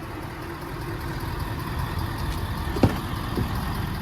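Pickup truck engine idling steadily, with a single sharp knock a little under three seconds in.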